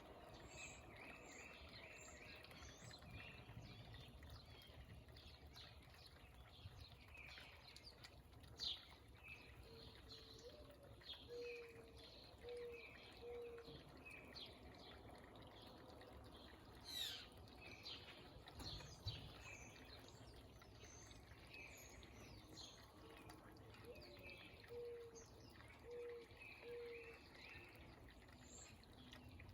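Several birds singing and calling at once: quick high chirps and whistled notes throughout, and twice a low series of about five hooting notes. A faint steady rush of water from a small waterfall lies underneath.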